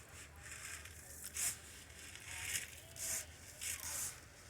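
Dry chicken scratch and sunflower seed being poured and stirred: about five short rustling, hissing bursts of grain.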